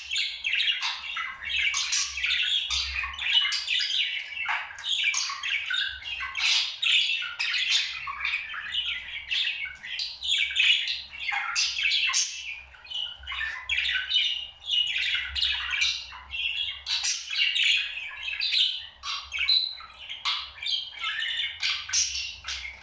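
Pet parrot chattering and warbling without a break: a fast, jumbled run of squawks, chirps and quick rising and falling notes.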